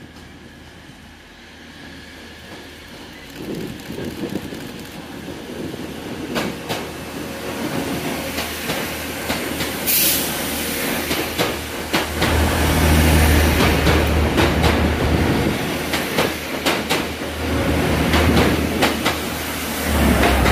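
TransPennine Express Class 185 diesel multiple unit running into the platform, getting louder as it comes alongside. Its underfloor engine hums low and the wheels knock rhythmically over rail joints, with a brief hiss about ten seconds in.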